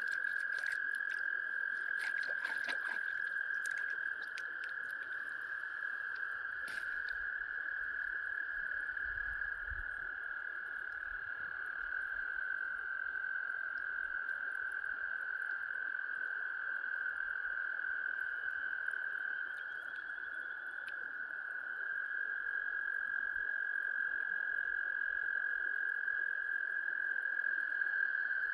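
Chorus of frogs calling together in a steady, unbroken high-pitched trill, with a few light clicks in the first seven seconds.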